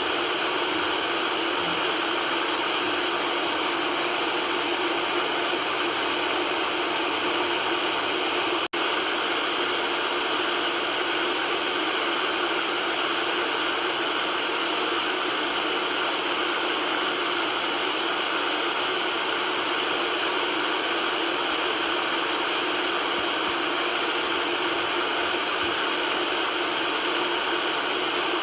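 Steady white noise: an even, unchanging hiss with little deep bass. It drops out for an instant about nine seconds in.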